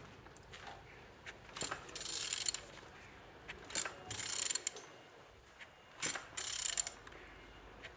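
A ratchet wrench clicking in three short spells, each under a second, with single ticks between, as the crankshaft of a Renault K9K 1.5 dCi diesel engine is turned over by hand to show that the engine rotates freely.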